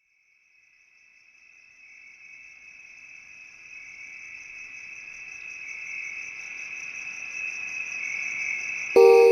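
Crickets trilling in a steady, high, rapidly pulsing chorus that fades in from silence and slowly grows louder. Music comes in abruptly near the end.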